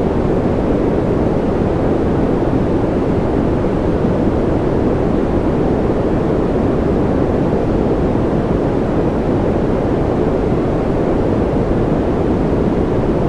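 Steady, unchanging white-noise-style sleep sound, low and deep with little hiss, like a muffled rumble.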